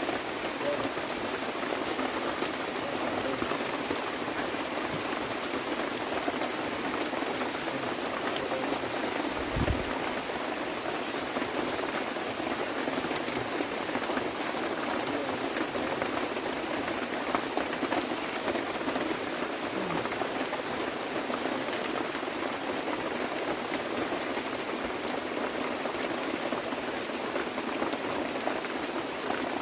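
Steady rain falling, an even hiss that keeps up throughout, with one short low thump about ten seconds in.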